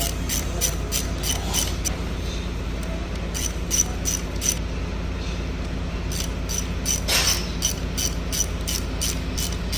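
Ratchet wrench clicking in runs of even strokes, about three a second with short pauses, as bolts are turned while fitting an engine water pump. A steady low hum runs underneath.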